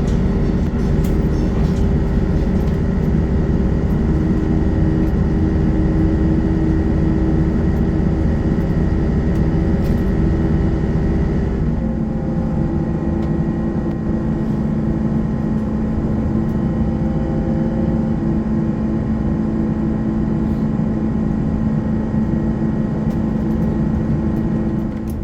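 Diesel multiple-unit train running, heard from inside the carriage: a steady engine drone over rumbling running noise, with the engine note changing about halfway through.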